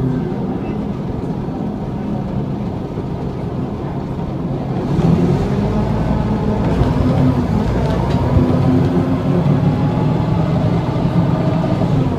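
Volvo B7L bus's diesel engine and road noise heard from inside the saloon, a steady low drone that grows louder about five seconds in as the engine works harder.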